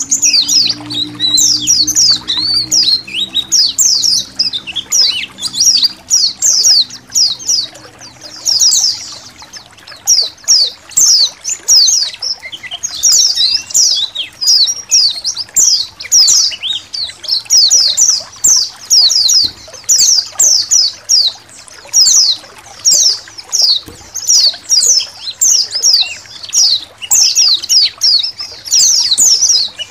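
A colony of white-eyes (pleci) twittering together in dense, rapid high-pitched chirps, over trickling water.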